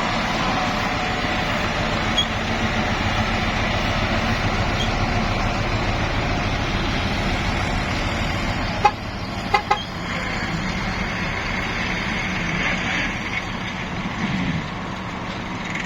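Nissan dump truck's engine running steadily, with a few sharp knocks about nine seconds in.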